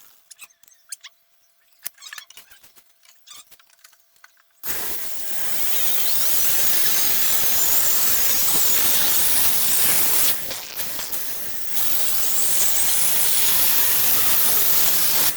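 A few seconds of quiet with small clicks and a faint steady hum, then an electric power tool starts up on the wooden stock and runs loudly with a high, wavering squeal. It eases off briefly about two-thirds of the way through, then runs on.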